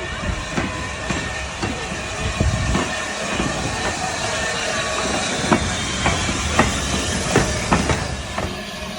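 Steam train rolling along the track with a steady hiss, its wheels clacking over the rail joints, the clacks coming louder and more often in the second half.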